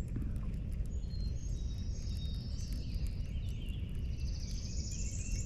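Birds singing, with high trills and whistles, over a steady low outdoor rumble.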